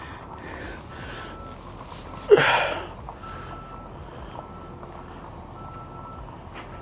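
A vehicle's reversing beeper sounding in the background, a steady high beep about half a second long repeating roughly every second, over wind noise. About two seconds in comes one short, loud, sharp sound that dies away within half a second.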